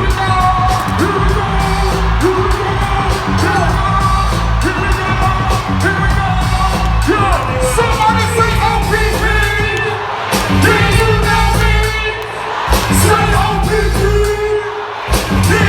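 Live R&B concert music played loud through a PA: a heavy bass and drum beat with singing over it.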